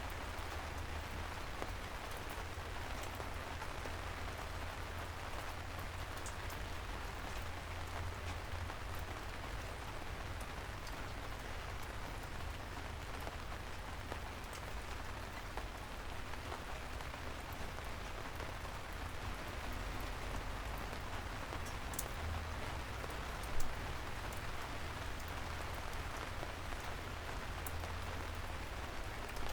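Steady soft rain falling on city streets, with scattered fine drips and a constant low rumble underneath. One louder tap stands out about three-quarters of the way through.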